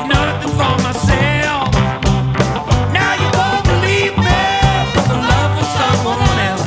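A rock band playing, with a steady drum beat under a strong bass line and a bending melody line on top.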